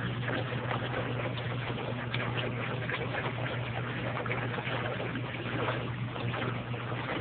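Homemade electric wash tub driven by a Brastemp washing-machine motor, running with a steady low hum while water churns and sloshes in the tub.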